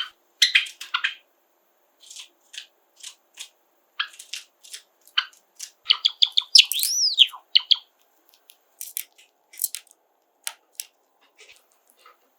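Pet Java sparrows giving short, sharp chirps throughout, with a brief warbling song phrase of gliding whistled notes about six seconds in.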